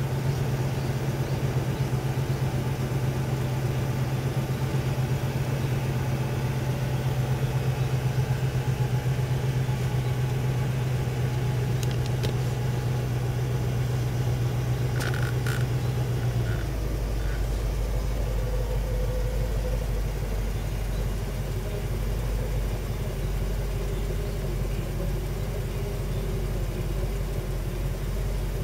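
Mercedes-Benz M117 V8 running at a fast idle while warming up from cold, heard from inside the car. The hum is steady, then drops to a deeper, slightly quieter note a little past halfway.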